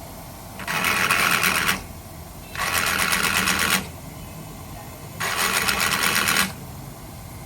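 Power tool run in three bursts of about a second each, with a fast rattle.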